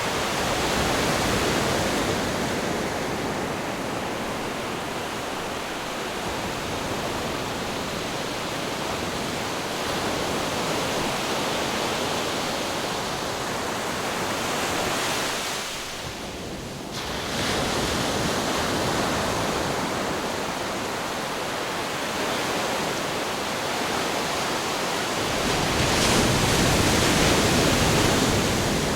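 Ocean surf and wind: a continuous rushing of waves, with a brief drop about halfway through and a louder swell near the end.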